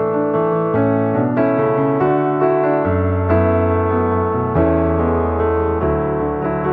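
Background piano music: a melody over a bass line, with new notes struck about every half second.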